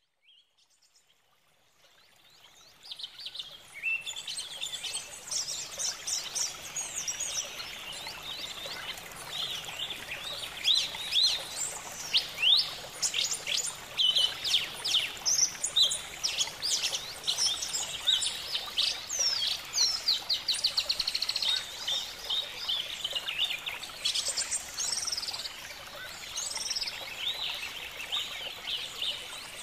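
Many birds chirping and trilling at once, a busy mix of short rising and falling chirps and quick trills that fades in about two to three seconds in.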